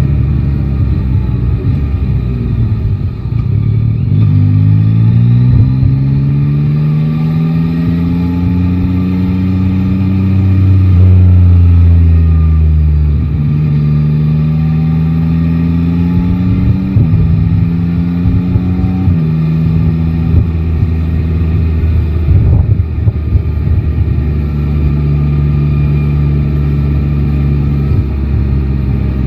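Yamaha Tracer 9 GT's 890 cc three-cylinder engine pulling through the gears: its pitch climbs, drops back at each upshift, climbs again, then settles into a steady run.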